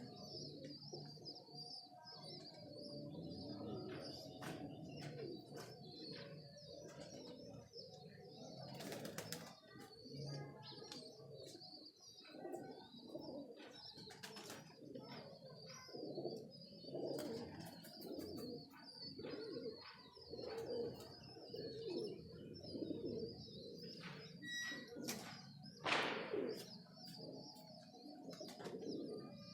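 Domestic pigeons cooing over and over, with scattered sharp taps and a steady high hiss behind.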